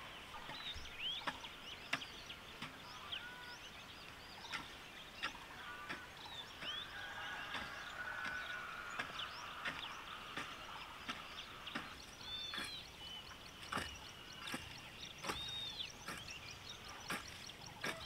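Birds calling: repeated short chirps and arcing high calls, with scattered sharp clicks or knocks in between.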